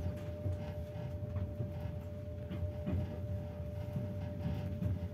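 Inside a moving passenger train carriage: a low rumble from the train rolling slowly, with a steady hum over it and a few faint clicks.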